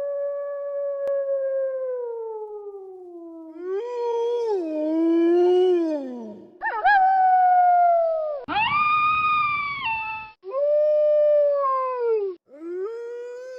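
Wolves howling: a run of long howls one after another, each gliding and wavering in pitch, with a rougher, raspier howl in the middle. Several howls stop abruptly.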